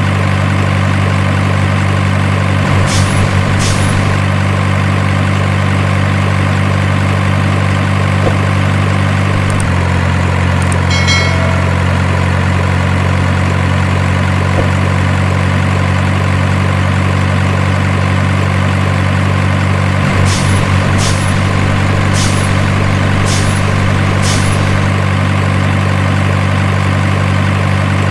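Truck engine idling steadily, its note dropping slightly about ten seconds in. A few brief high ticks come about three seconds in, and several more toward the end.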